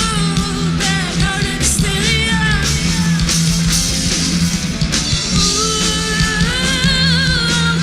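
A rock band playing live: guitar, bass and drums under a singer's wavering vocal line, loud and steady throughout.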